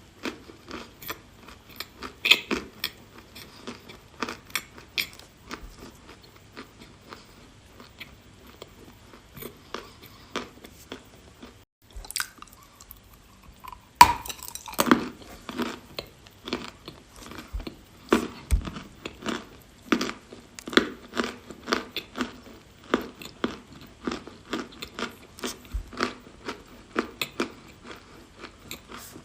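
A person biting and chewing dry chalk in a fast run of crisp crunches. The crunching eases off about twelve seconds in, then a loud sharp bite about two seconds later starts another stretch of chewing.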